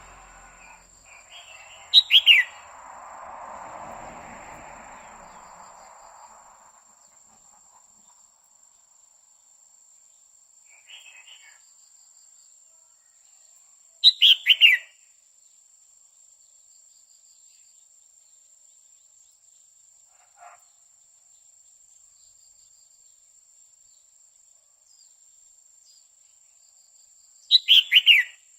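Female red-whiskered bulbul giving short, sharp calls that fall in pitch, in three brief bursts about twelve seconds apart. A faint steady high-pitched tone sits behind them.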